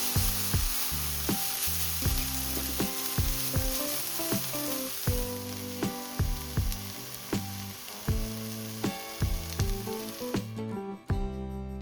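Sliced green peppers sizzling as they are stir-fried in sesame oil in a pan, with stirring. The sizzle cuts off suddenly near the end.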